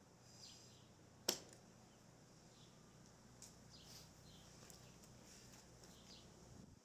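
A single sharp click or knock about a second in, against near silence, with a few faint high chirps here and there.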